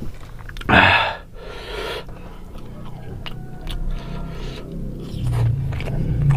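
Close-up eating sounds: a person chewing a mouthful of rice and fried fish, with many small wet mouth clicks. A short, loud breathy noise comes about a second in.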